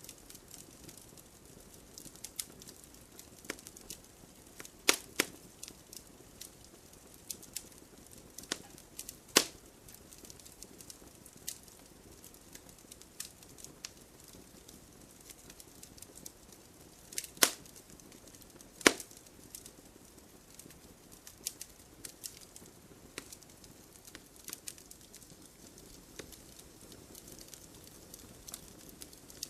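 Fire crackling in a fireplace: a steady scatter of small snaps and pops over a soft low hiss, with a handful of louder sharp pops among them.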